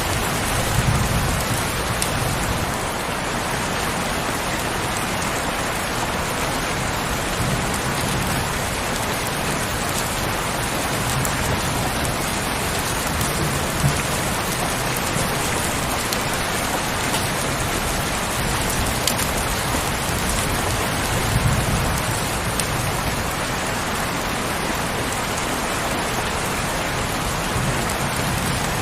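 Heavy rain falling steadily, an even hiss with scattered sharp drop ticks. A few brief low rumbles come and go underneath, about a second in, midway and again near the three-quarter mark.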